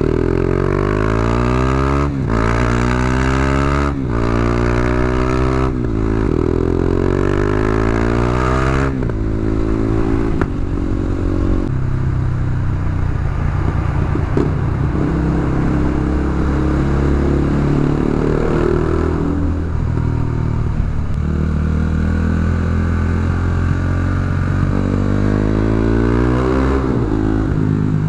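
KTM Duke 390's single-cylinder engine through an Akrapovic exhaust with the dB-killer removed, accelerating up through the gears: four rising revs, each dropping back at an upshift, in the first nine seconds. Then it runs at steadier, gently wavering revs, with another rise near the end.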